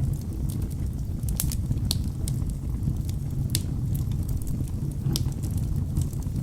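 Wood fire burning in a fireplace: a steady low rumble of flames with frequent sharp crackles and pops from the logs, the loudest about one and a half, three and a half and five seconds in.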